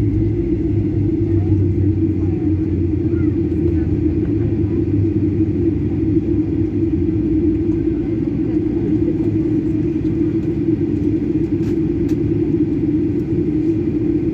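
Steady drone of a Boeing airliner's jet engines and airflow heard inside the passenger cabin.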